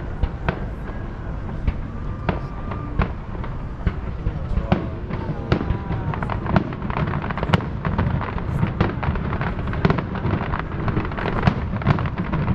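Fireworks show: a rapid run of bangs and crackling pops over a low rumble, coming thicker and louder in the second half.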